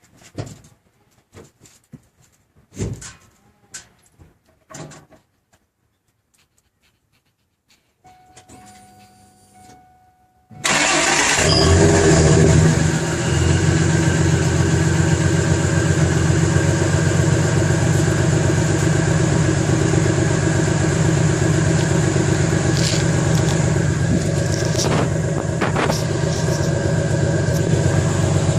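A few knocks and clicks, then a faint hum. About ten seconds in, the 2000 Ford F-150's stock 4.2-litre V6 starts suddenly and settles into a steady idle through its stock exhaust, a little louder for a moment just after it catches.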